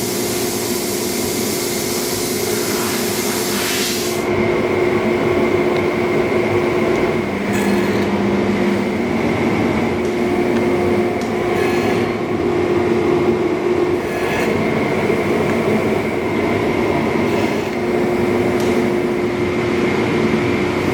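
Bench saw running with a steady hum and whine, cutting wood with a loud hiss for the first four seconds, then spinning with a few short hissy cuts.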